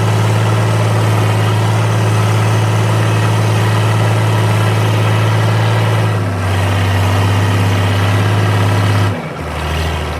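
Fiat 1300 DT Super tractor's six-cylinder diesel engine running steadily under load while pulling a ripper. Its pitch drops about six seconds in and drops again near the end, where it also gets quieter.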